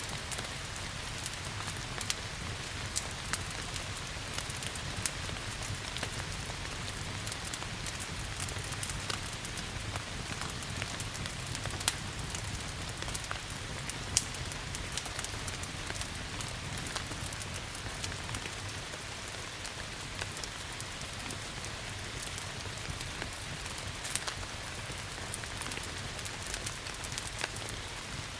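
Steady rain mixed with a crackling wood fire: an even hiss dotted with frequent sharp pops and crackles, over a low steady rumble.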